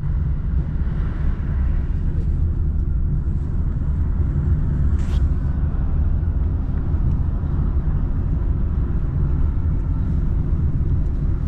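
Steady low rumble of a car on the move: road and engine noise heard from inside the vehicle.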